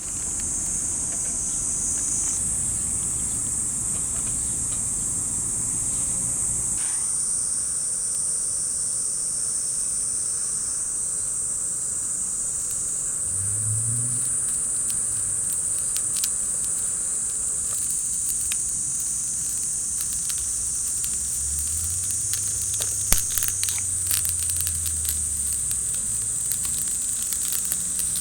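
Insect chorus: a steady, high-pitched shrill, with a few sharp crackles and a brief low hum in the second half.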